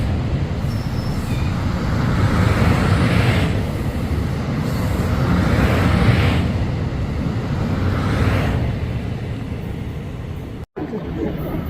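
Passenger train rolling past, a loud low rumble with a rushing swell about every two and a half seconds as the cars go by. The sound drops out abruptly for a moment near the end.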